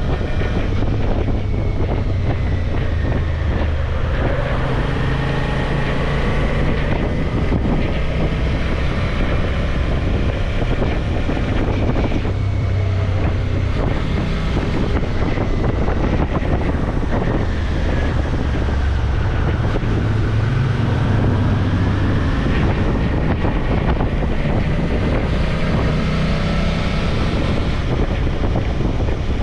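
Suzuki V-Strom motorcycle engine running on the road, its pitch rising and falling several times with throttle and gear changes, under heavy wind noise on the microphone.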